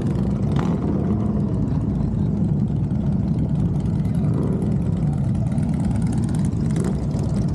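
Motorcycle engines running at idle, a steady low rumble.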